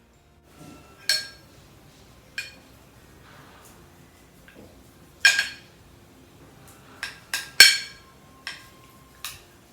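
Cutlery clinking against a dish: about eight sharp, ringing clinks at uneven intervals, the loudest about five seconds in and a quick cluster around seven and a half seconds in.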